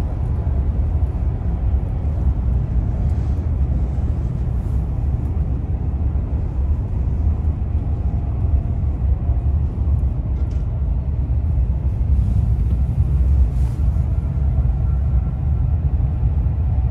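Steady low rumble of a KTX high-speed train running.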